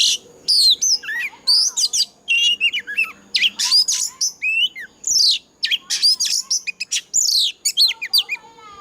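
Oriental magpie-robin singing a loud, fast, varied song of clear whistles, sharp downward sweeps and chattering notes with barely a pause between phrases; the song breaks off near the end.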